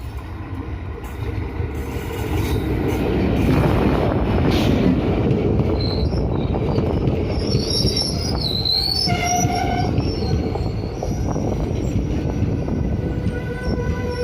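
Indian Railways train rumbling past with its wheels squealing high on the rails through the middle. A steady horn tone starts near the end.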